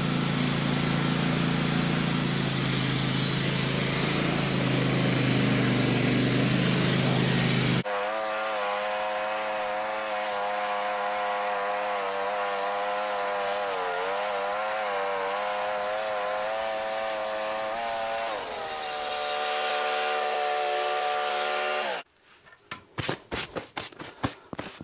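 Wood-Mizer LT15 bandsaw mill running and sawing a 2-inch slab off a hard maple log. The first part is a dense, noisy cutting sound. About 8 s in it changes abruptly to a steadier, pitched machine drone that wavers, dips slightly near 18 s and cuts off suddenly about 22 s in, leaving faint clicks.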